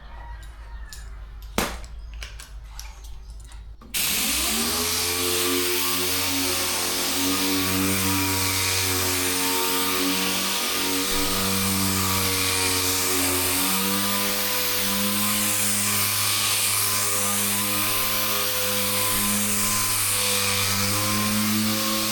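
A few light clicks and taps, then about four seconds in a dual-action (DA) orbital sander starts, spins up and runs steadily with a hum and a hiss, sanding primer with 400-grit paper.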